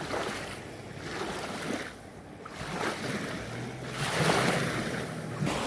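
Small lake waves washing onto a sandy shore in swells that rise and fall, with wind buffeting the microphone.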